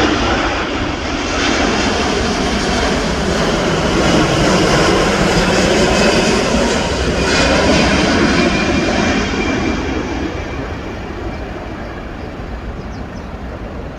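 Boeing 787 jet airliner passing by, its engine noise building to a peak about halfway through and then slowly fading away.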